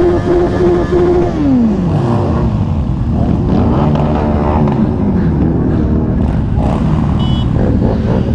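Sport motorcycle engine running at a steady pitch, then dropping steadily in pitch about a second in as the bike slows. After that, several engine notes rise and fall as throttles are opened and closed.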